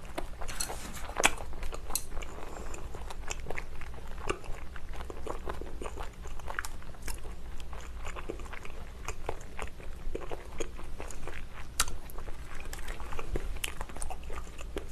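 Close-miked chewing of a mouthful of rice, salted squid and raw laver, with many short irregular mouth clicks and small crunches.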